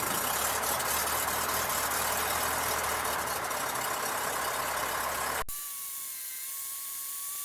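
Cessna 152's four-cylinder Lycoming O-235 engine idling steadily just after start-up, heard in the cabin. About five and a half seconds in, the sound cuts off abruptly to a much quieter feed carrying a thin, steady whine.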